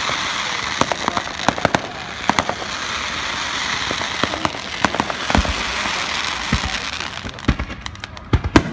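Fireworks finale: a dense crackle of many bursting shells, with sharp cracks throughout and a few deep booms in the middle. The crackle thins out about seven seconds in, then a cluster of loud bangs comes near the end.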